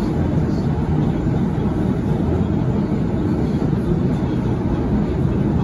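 Interior running noise of a Sydney Trains B-set (CRRC-Downer) electric train in motion through a tunnel: a steady, loud, low rumble of wheels and running gear heard from inside the carriage.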